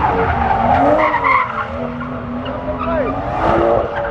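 A car drifting: its engine revs up and down over the screech of sliding tyres. It is loudest near the start and again about three and a half seconds in.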